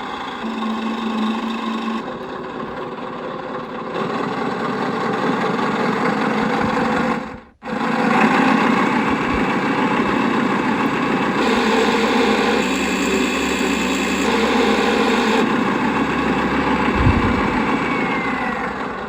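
Servonaut SM7 sound module playing simulated truck diesel engine sound through its speaker, switching from one engine sound option to the next every few seconds while the sounds are cycled through. The sound cuts out for a moment about seven seconds in, then runs on.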